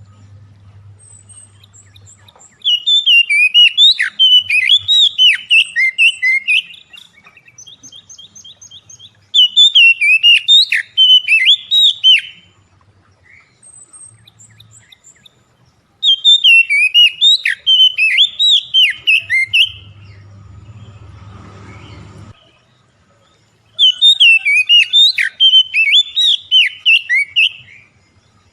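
An oriental magpie-robin (kacer) sings in four loud bursts of rapid, varied chirps and whistles, each three to four seconds long, with softer chirps between them. A short rustling noise comes about two-thirds of the way through.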